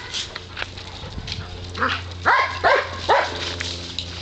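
Dog giving three short, high barks in quick succession a bit past two seconds in, each falling in pitch.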